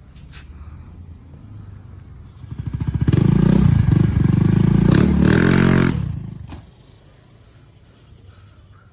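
Motorcycle engine running low, then revved loudly for about three seconds, starting a couple of seconds in, before the sound dies away.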